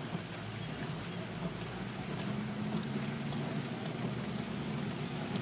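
Car driving through floodwater: a steady engine hum under a constant wash of water.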